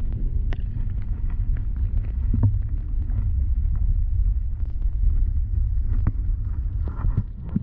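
Muffled low rumble of a camera microphone held under lake water, with scattered small clicks and knocks from the water and the handling of the camera.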